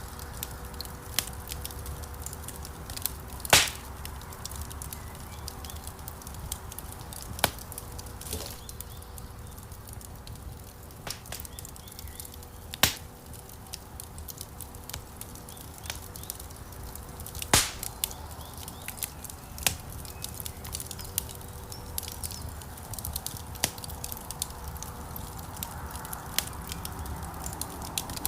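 Wood fire crackling in a fireplace: irregular sharp pops and snaps over a low rumble of burning logs, with the loudest pops about three and a half, thirteen and seventeen and a half seconds in.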